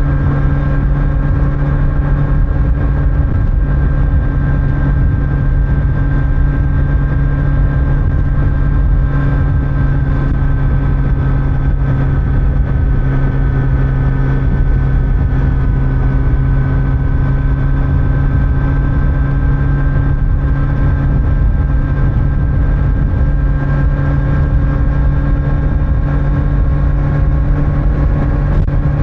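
Kawasaki Z900's inline-four engine through the stock exhaust, running at a steady cruising speed with nearly constant pitch, over a steady low rumble of wind and road.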